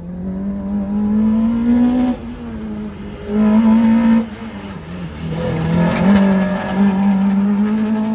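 Slalom car's engine revving hard through the cones in three bursts, each rising in pitch and then dropping away as the throttle comes off.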